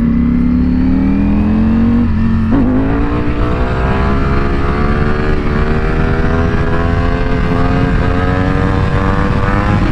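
Motorcycle engine accelerating: its pitch rises, drops briefly at a gear change about two seconds in, then climbs slowly and steadily in the next gear.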